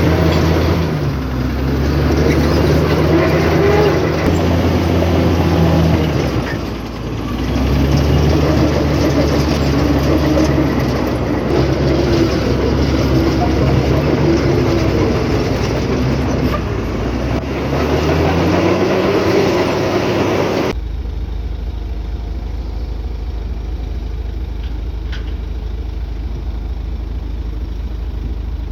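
Heavy diesel earthmoving machinery working, its engine rising and falling in pitch under load, with a short dip about seven seconds in. About two-thirds of the way through the sound changes abruptly to a steadier, lower engine drone.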